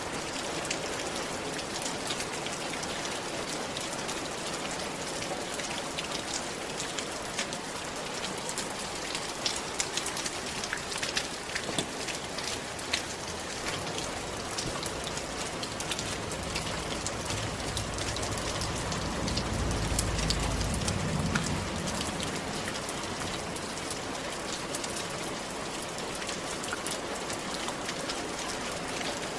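Steady rain falling on a roof, a dense hiss with many separate drops ticking on the surface. About halfway through, a low rumble swells for several seconds and fades again.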